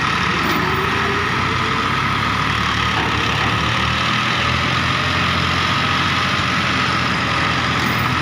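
Diesel tractor engine running steadily at an even pitch and level.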